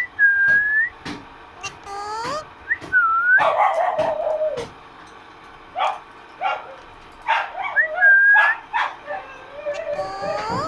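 Pet parrot whistling short notes that dip and rise, with sharp clicks between calls and a longer, harsher call about three and a half seconds in.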